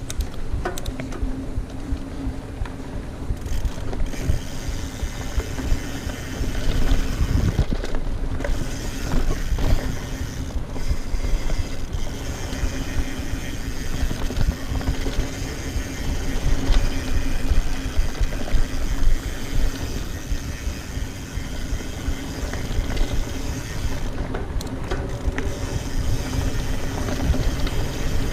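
Mountain bike ridden fast along a dirt trail: steady tyre noise with the chain and frame rattling and clicking over bumps, and a few heavier knocks.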